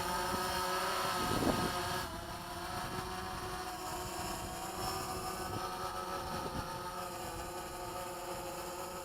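DJI Phantom quadcopters hovering, their propellers making a steady hum of several held tones, with wind rumbling on the microphone.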